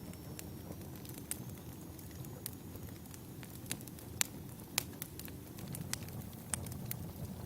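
Wood fire burning: a low steady rumble with irregular sharp crackles and pops, the loudest a little past the middle.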